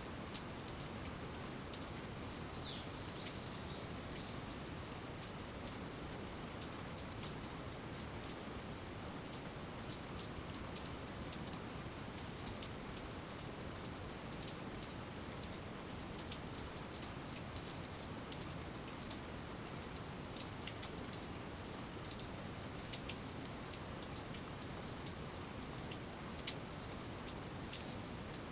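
Steady rain falling, with scattered sharp ticks of single drops striking nearby surfaces.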